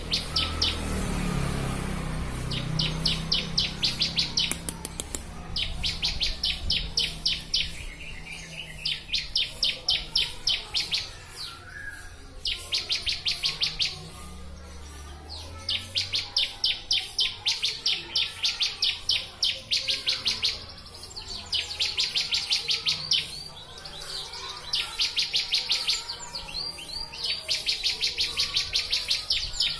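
Bar-winged prinia (ciblek) singing. It repeats rapid trills of high, evenly spaced chipping notes, each phrase lasting one to two seconds, with short pauses between.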